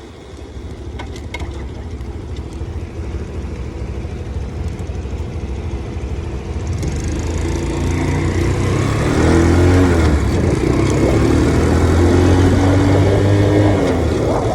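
Motorcycle engine running and building speed, its pitch rising and falling through the gears from about eight seconds in, getting louder throughout. Wind noise on the microphone rises with it.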